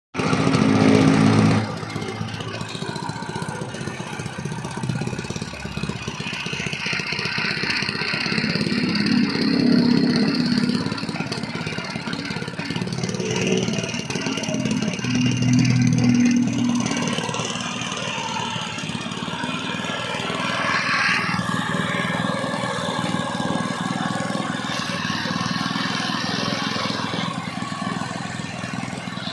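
Honda GX160 single-cylinder four-stroke petrol engine on a concrete vibrator running during its break-in, swelling louder several times as its speed rises and falls.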